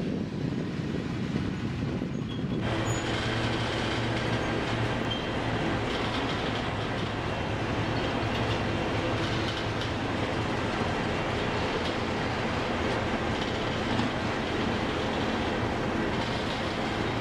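Train of withdrawn locomotives, towed for scrap, rolling past: a steady rumble of steel wheels on the rails, growing fuller about two and a half seconds in.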